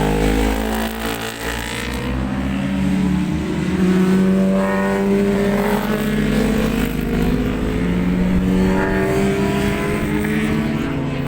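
Several superbike racing motorcycle engines running at high revs together, their pitch rising and falling in long overlapping glides.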